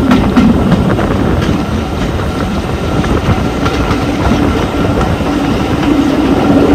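Jacobite steam train running on the rails, a steady loud rumble with irregular wheel clatter, heard from a carriage window.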